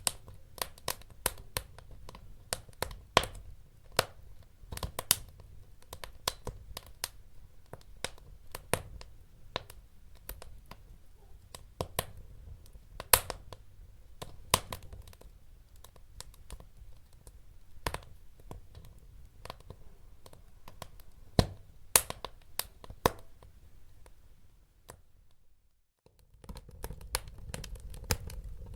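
Wood fire crackling in a fireplace: irregular sharp pops and snaps over a low rumble of burning. The sound drops out briefly about 25 seconds in, then resumes.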